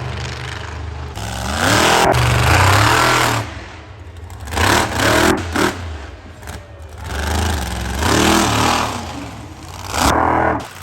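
Monster truck engine revving hard in about four surges, its pitch rising and falling with each, over a steady low rumble.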